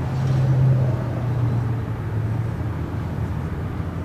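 Steady low hum of a motor vehicle's engine running, strongest in the first second and easing a little after.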